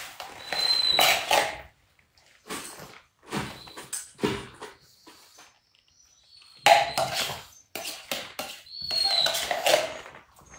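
Dogs making short whining vocal sounds in several bursts, with a quiet gap in the middle, while held in a sit-and-stay waiting for food.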